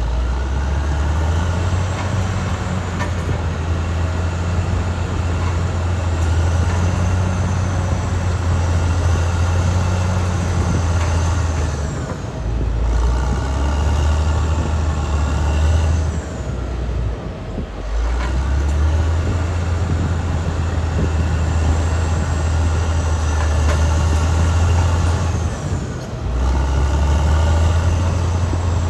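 Caterpillar D6R XL bulldozer's diesel engine running steadily, a low drone with a whine above it. It eases off briefly about 12 seconds in, again around 17 seconds and near the end, then picks up again.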